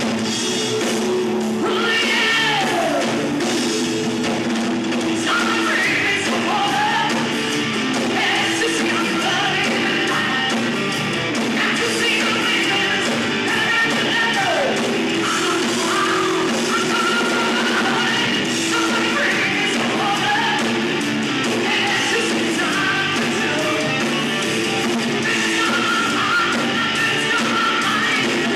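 A rock band playing live, with distorted electric guitar, bass, drums and a singing voice, recorded from the room.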